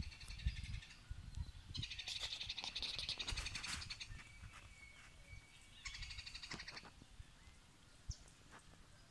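Harsh, rasping bird calls in three bouts, the longest about two seconds, with faint thin calls from other birds between them.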